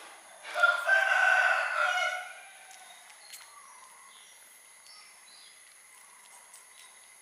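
A single long bird call, about two seconds, starting about half a second in, loud against faint background noise.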